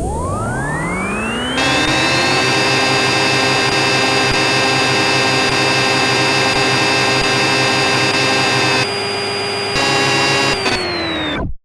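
CNC machine spindle motor spinning up with a rising whine, running at a steady high pitch with a rushing noise over it, then starting to wind down before it cuts off near the end.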